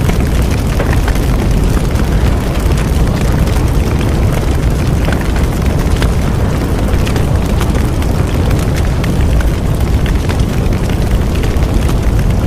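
Bonfire burning: a steady low rumble of flames with many small crackles and pops all through.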